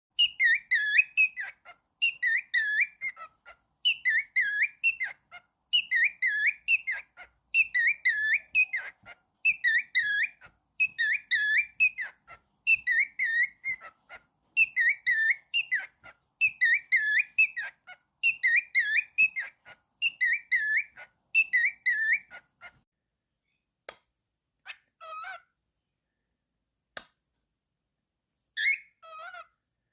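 Cockatiel whistling the same short wavering phrase over and over, about once every second and a half to two seconds. The phrase stops a little over twenty seconds in, and a few short chirps and clicks follow.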